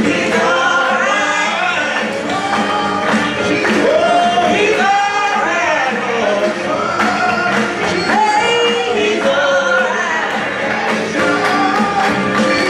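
Gospel praise-and-worship music: singing voices with instrumental accompaniment, loud and continuous.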